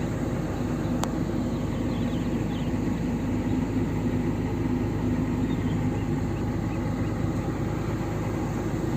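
Excavator's diesel engine running steadily at a constant speed, with a single sharp click about a second in.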